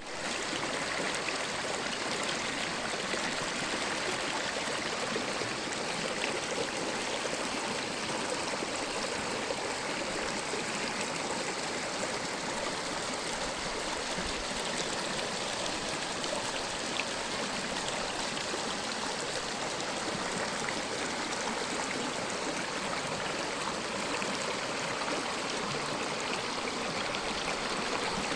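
Flowing water running steadily: an even, unbroken sound with no pauses or changes.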